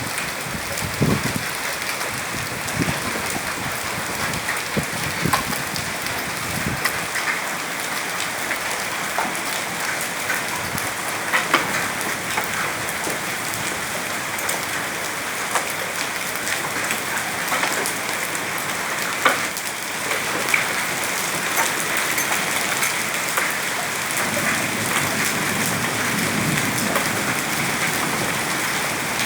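Heavy rainstorm with hail: a steady, dense downpour hissing on hard surfaces, with sharp hailstone knocks now and then.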